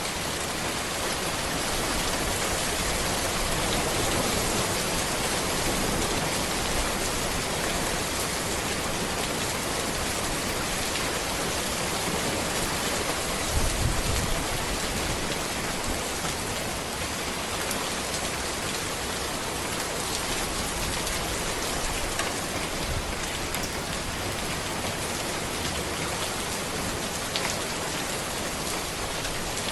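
Steady rain falling on a road, an even hiss of many drops. There is a brief low rumble a little before the middle.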